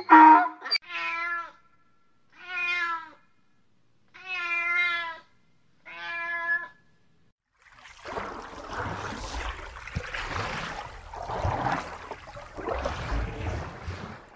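A donkey's bray ends about half a second in. A cat then meows four times, each meow about a second long. From about eight seconds in there is a rough, rushing noise.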